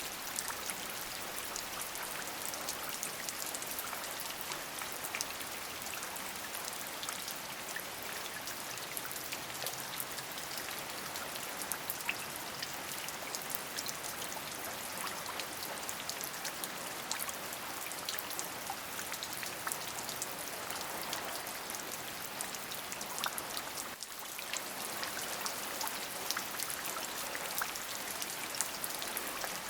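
Steady rain: an even hiss dotted with many small, distinct drop ticks. It dips briefly about two-thirds of the way through.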